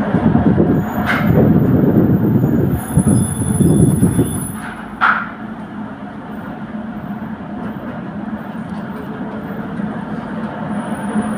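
Milan tram running along its rails. Loud rumbling for the first four seconds or so, with two short wheel squeals about one and five seconds in, then a steadier, quieter running noise.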